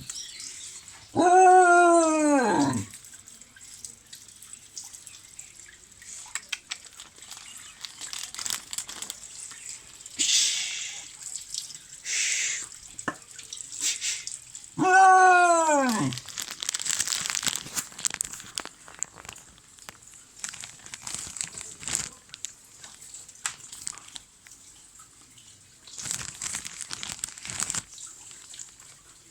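A pet animal gives two long, drawn-out cries, each rising and then falling in pitch, about a second in and again near the middle. Softer clicks and rustling come between the cries.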